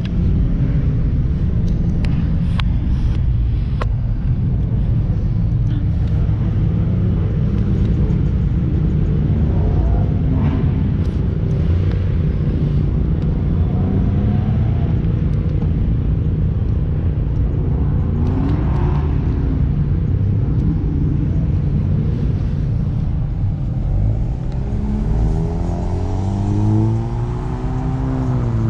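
Car engine running with a steady low rumble. Near the end it revs up and falls back down.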